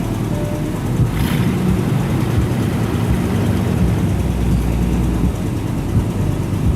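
A car engine running close by with a steady low rumble, and a short hiss about a second in.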